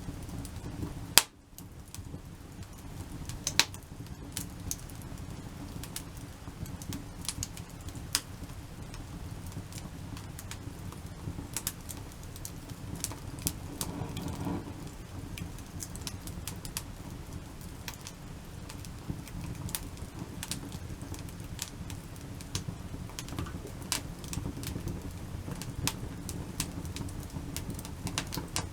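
Wood fire in a log-cabin stack crackling, with irregular sharp pops and snaps over a steady low rumble; one loud snap about a second in.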